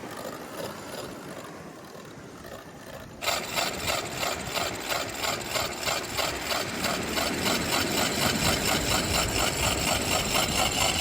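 Fishing reel's drag screaming as a hooked shark pulls line off it: a fast, pulsing rasp with a high ringing tone that starts suddenly about three seconds in, after a quieter stretch of steady background noise.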